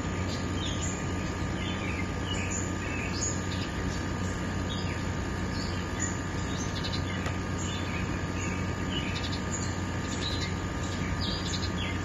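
Small birds chirping in short, scattered calls over a steady hiss of flowing stream water, with a low steady hum underneath.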